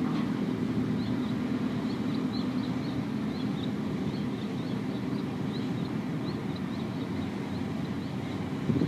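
Steady low engine rumble, with a small bird's quick high chirps repeating over it and a short thump near the end.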